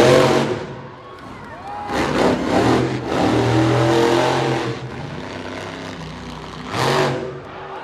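Monster truck engine revving hard in repeated bursts: loud at the start, again from about two to four seconds in, and briefly near the end, running lower in between.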